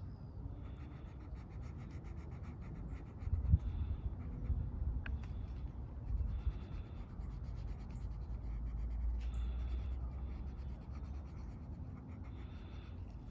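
Coloring strokes on paper, a rapid, steady scratchy scribbling, over a low rumble that swells in the second half. A single knock comes about three and a half seconds in.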